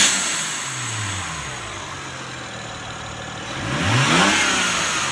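BMW 335i's turbocharged inline-six revved twice, each rev falling away with the whooshing hiss of a newly fitted aftermarket blow-off valve venting boost.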